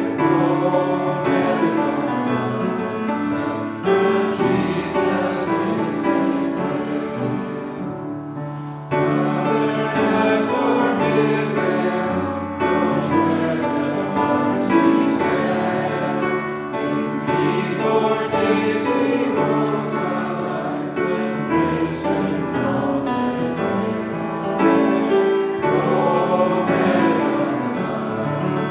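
Congregation singing a hymn together in slow, held notes, with a short break between lines about eight seconds in.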